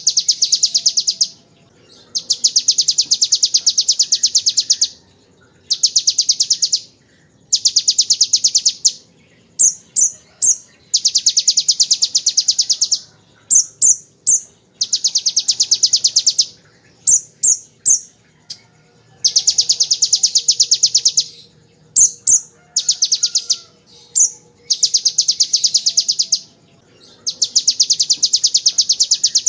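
A kolibri ninja (van Hasselt's sunbird) singing the ciblek-style 'ngebren' song: long, very rapid, high-pitched machine-gun trills of two to three seconds each. Short gaps between the trills hold brief high chips, and the pattern repeats about nine times.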